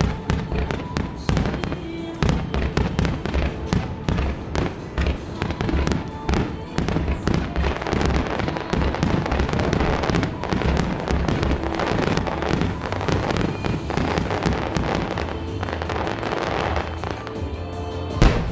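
Fireworks display barrage: shells bursting in quick succession with crackling, denser in the middle, and one sharp loud bang near the end, over music played for the show.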